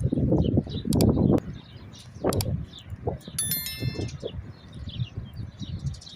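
Small birds chirping repeatedly over uneven low scuffing and knocking sounds, with a brief bright metallic ringing, like a chime, about three and a half seconds in.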